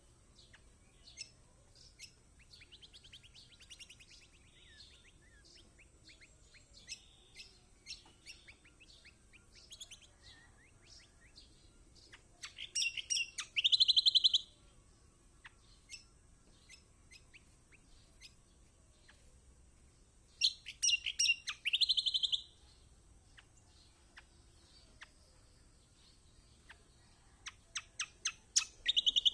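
Kecial kombok (yellow white-eye) calling: scattered short chirps, broken by three loud bouts of rapid chattering about seven seconds apart, each lasting about two seconds and ending in a dense buzzy trill.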